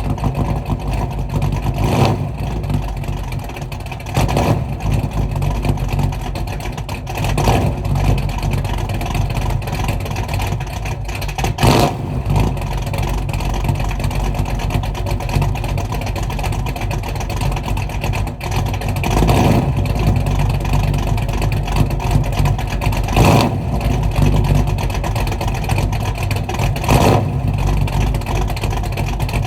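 Mopar car engine idling through a new Black Widow aftermarket exhaust, a steady low rumble broken by short throttle blips every few seconds.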